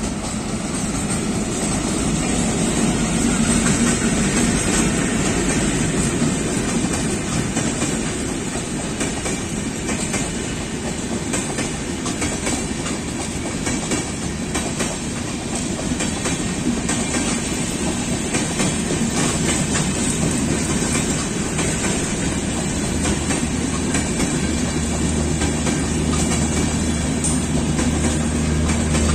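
Intercity express train running through a station without stopping, hauled by an ALCO DL560C (WDM-3A) diesel-electric locomotive. The locomotive passes in the first few seconds, then the LHB coaches roll by with a steady clickety-clack of wheels over the rail joints. A low steady hum comes in near the end.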